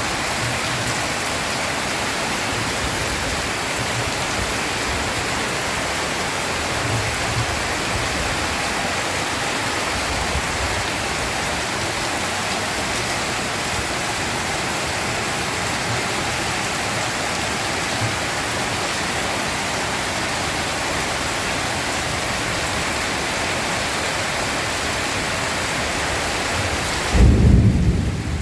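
Heavy rain pouring steadily in a thunderstorm, with faint rumbles of thunder. Near the end a loud, low thunder rumble breaks in.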